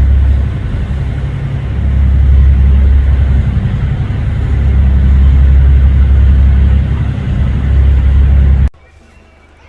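Car on the road, heard as a loud, low rumble that swells and dips every couple of seconds, then cuts off suddenly near the end.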